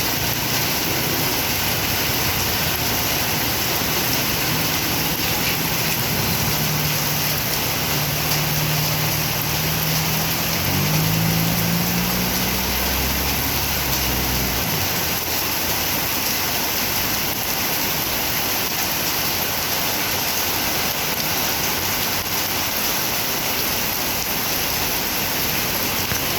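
Heavy rain pouring steadily. A motor vehicle's engine runs underneath, rises in pitch as it speeds up about eleven seconds in, and fades out a few seconds later.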